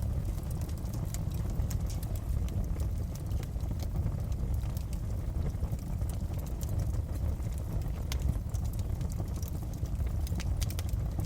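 Wood fire burning in a fireplace: a steady low rumble of flames with scattered sharp crackles and pops, bunched more thickly about eight seconds in and again near the end.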